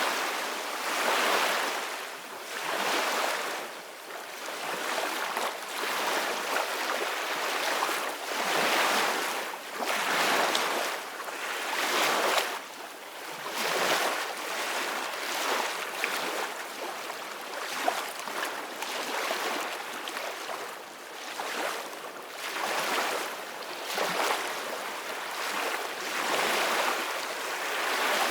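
Ocean waves breaking and washing on the shore, a steady rushing of surf that swells and eases every second or two.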